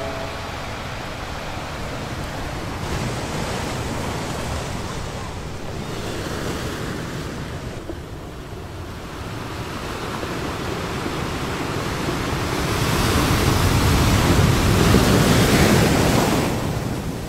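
Ocean waves washing onto a sandy beach: a steady rush of surf that swells louder in the second half.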